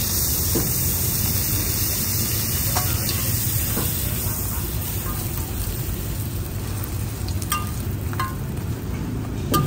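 Roti dough frying in butter on a flat steel griddle, sizzling steadily, with a few light clicks and scrapes of a metal spatula against the pan as the roti is turned and folded.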